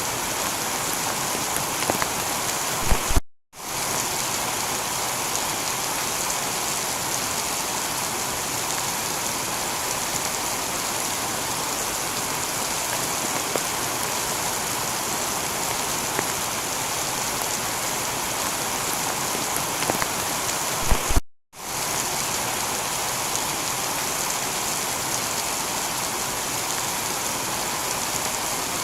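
Heavy rain falling on a tiled roof, a steady even hiss of many drops. The sound drops out to silence for a moment twice, about three seconds in and again about twenty-one seconds in, each time just after a short thump.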